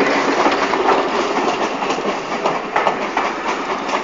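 Railway passenger coaches rolling past close by at low speed. A steady rumble of wheels on rail is broken by irregular clicks as the wheels run over the rail joints.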